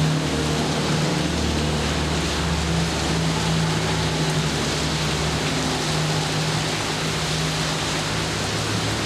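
Steady heavy rain falling, with a low, steady droning hum underneath; the deepest part of the hum drops away about five seconds in.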